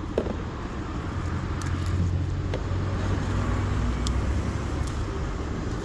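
Low, steady engine rumble of a motor vehicle, growing louder around the middle and easing off toward the end, with a few faint ticks.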